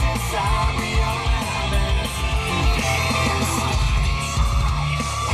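Rock music with electric guitar and heavy bass playing loudly through the Volkswagen Phaeton's factory sound system.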